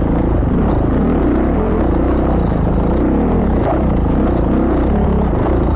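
Motorcycle engine running on the road with heavy wind noise, its pitch wavering up and down.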